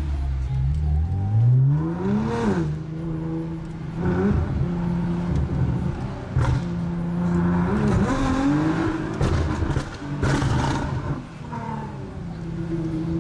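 Nissan GT-R R35's twin-turbo V6, tuned to about 600 hp, being driven hard: the revs climb and drop several times between steadier stretches, with short bursts of exhaust crackle.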